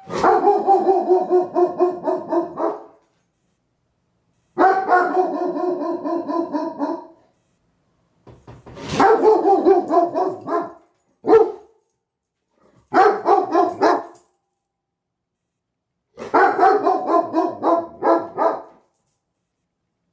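Dog barking in quick runs of about four barks a second, six runs with short pauses between them. It is alert barking at a doorbell or knock, telling that someone is at the door.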